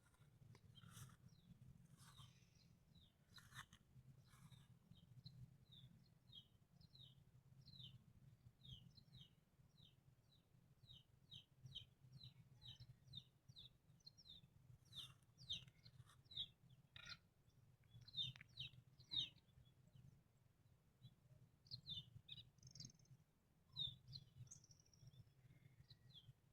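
Faint bird calls: a long series of short, high chirps, each falling in pitch, about two a second. Several sharp clicks come in among them, and a low steady hum runs underneath.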